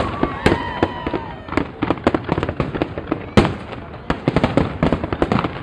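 Aerial fireworks exploding in a dense, irregular run of cracks and bangs, with one especially sharp report about three and a half seconds in.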